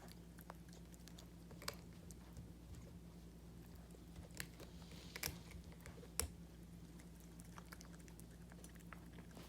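Dog biting at a treat ball with a biscuit inside: scattered, faint sharp clicks and taps, the loudest about six seconds in. A steady low hum runs underneath.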